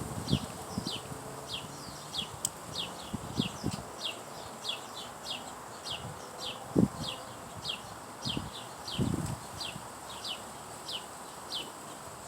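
A small bird calling over and over with short, high, falling chirps, about two to three a second, with a few low thumps scattered through, the loudest about seven seconds in.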